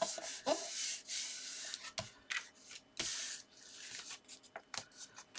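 Paper envelope being folded and its creases rubbed down by hand: a run of dry rustling, rubbing strokes with a few light taps, quieter near the end.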